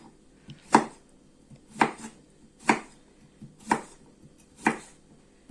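Knife chopping vegetables on a cutting board: five sharp chops, about one a second.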